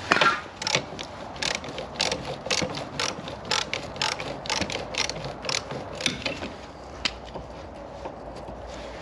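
Ratchet spanner clicking as a rusted chassis bracket bolt is wound out, in an irregular run of sharp clicks, about two to three a second, that stops about seven seconds in.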